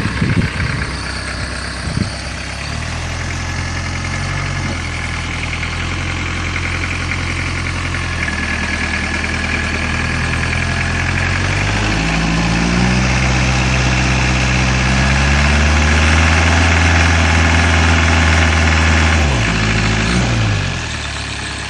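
Land Rover engine running under load as the driver tries to pull it out of deep, sludgy mud: the engine note rises about halfway through, holds higher for several seconds, then drops back, with a steady hiss over it. The wheels are stuck and the vehicle does not get free.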